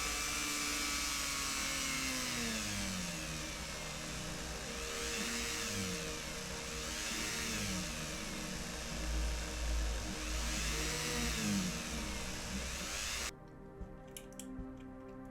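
Small electric drill or rotary tool running, most likely turning a tap to cut a screw thread in the die-cast metal body. Its speed dips and rises several times, and it cuts off abruptly near the end.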